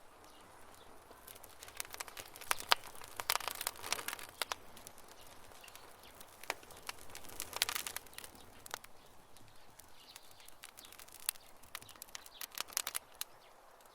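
Campfire crackling: burning wood giving off sharp pops and snaps in quick clusters over a faint steady hiss, busiest from about two to four seconds in, again around seven to eight seconds, and shortly before the end.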